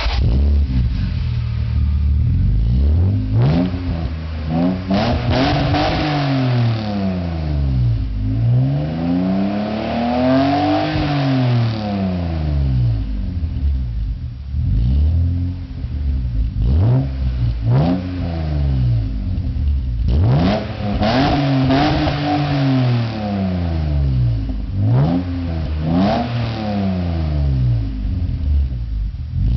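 BMW E36 M3 straight-six engine revved repeatedly through its exhaust. The pitch rises and falls over and over, mixing short throttle blips with several longer pulls that climb and drop back.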